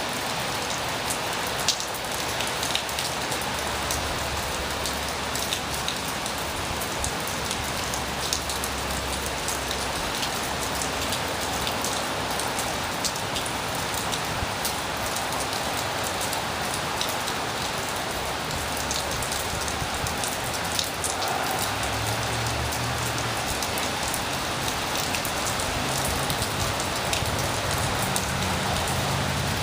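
Heavy rain falling steadily, with many sharp drop impacts close by. Gusts of strong wind add a low rumble, stronger in the second half.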